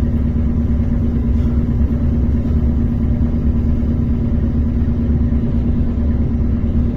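ER9T electric multiple-unit train running, heard inside the passenger car: a steady low rumble with a constant hum.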